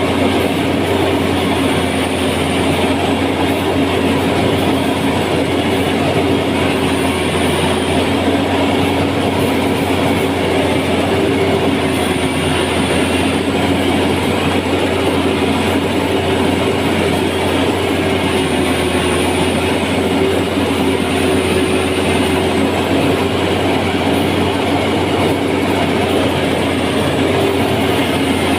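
An engine running steadily, with a constant hum and no change in speed.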